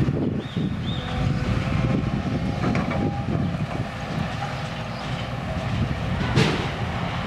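Steady low rumble of a heavy vehicle, with a few short high squeaks about a second in and one sharp knock a little over six seconds in.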